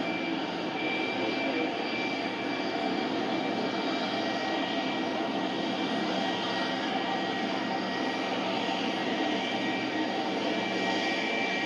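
Su-57 fighter's twin turbofan jet engines running steadily: an even rush of jet noise with a thin high whine over it.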